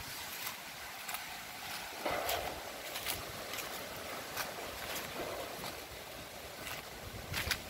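Strong gusty wind rushing through trees, with the rush picking up about two seconds in and a few brief sharp rustles or cracks.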